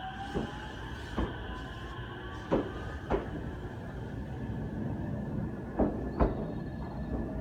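Electric train moving along the station track, its wheels clacking over rail joints in pairs a few times over a steady rumble, with a motor whine rising just at the start.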